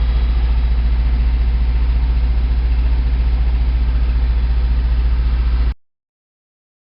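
Toyota 22RE four-cylinder engine of a 1987 4Runner running cold with a heavy misfire, a steady low pulsing run as if on only two or three cylinders, heard from inside the cab. The owner traced the misfire to spark plugs fouled by burning coolant through a cracked head. The sound cuts off suddenly near the end.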